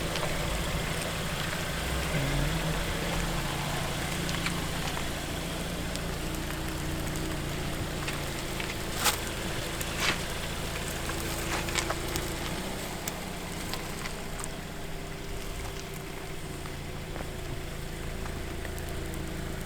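Hyundai Tucson running with a steady engine and road hum, with a couple of short clicks about nine and ten seconds in.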